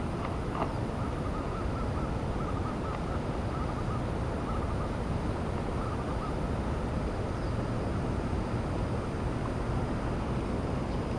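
Steady low outdoor rumble, with a bird calling a quick run of short repeated notes through the first half.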